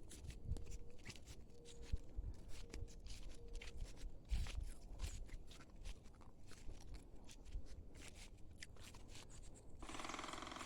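Faint rustling and crunching with many scattered small clicks. A faint short hum comes and goes about four times in the first four seconds.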